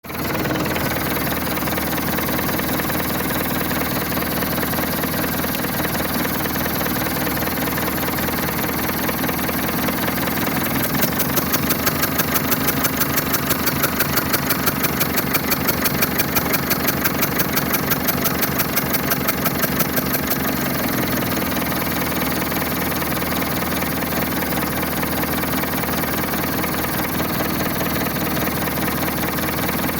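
Diesel engine running with a misfire caused by valve lash set too tight, so its rhythm and speed are uneven. About a third of the way in, a strong regular beat of a few pulses a second sets in; it stops after about ten seconds and the steadier running returns.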